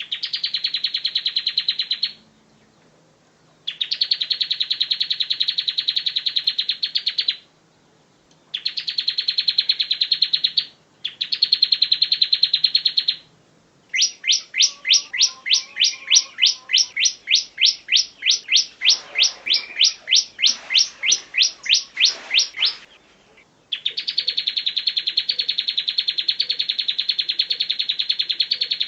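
Bar-winged prinia singing: fast trilled phrases a few seconds long with short pauses between them, and midway a slower series of sharp repeated notes, about four a second, lasting about nine seconds.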